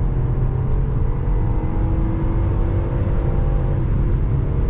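BMW X5 E53 4.4i's V8 engine on petrol under hard acceleration: the engine note climbs steadily over a deep rumble, then drops in pitch near the end as the automatic gearbox shifts up.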